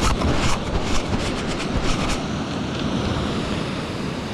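Steady rush of water from nearby waterfalls, with a quick run of rustling clicks and scuffs over the first two seconds.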